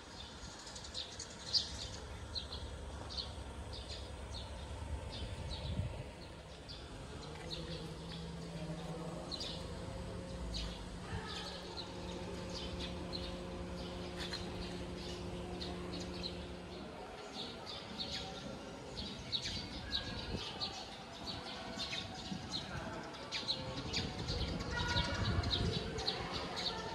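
Small birds chirping over steady outdoor background noise, a stream of short high chirps throughout. A steady low hum, like a distant motor, runs through the middle, and there is a single brief knock about a second and a half in.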